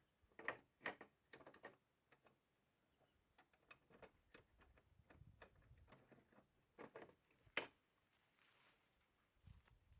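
Faint, scattered clicks and knocks, with a cluster of four in the first two seconds and one sharp knock about three-quarters of the way through.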